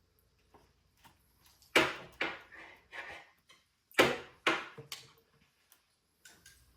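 Crunchy dried beef (carne seca) being bitten and chewed close to the microphone, in two short runs of about four crunches each.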